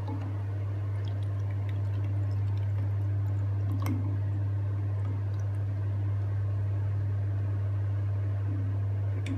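Steady low electrical hum with a faint click about four seconds in.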